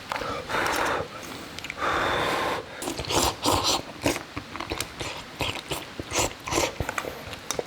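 Close-up eating sounds: a person biting and chewing crunchy food. Two longer rushing sounds in the first few seconds, then a run of short, irregular crunches.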